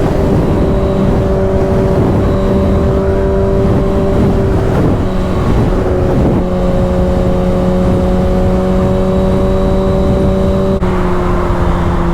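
Motorcycle engine running at a steady cruise, with heavy wind rumble on the microphone. The engine pitch wavers briefly around the middle and drops slightly near the end.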